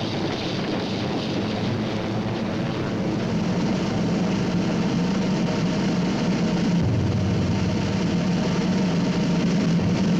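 Steady drone of a military transport plane's propeller engines in flight.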